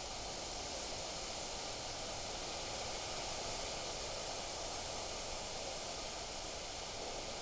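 Steady rushing noise of wind through the surrounding trees and grass, even and unbroken.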